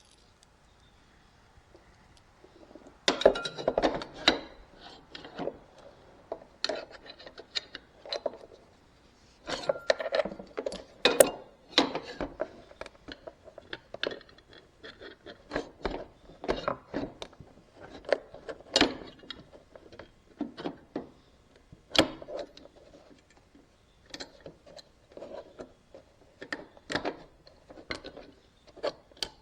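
Irregular metal clinks, taps and knocks of a bolt, washers and hand tools being worked into a zero-turn mower's lap bar mount, starting about three seconds in, with a few sharper clacks.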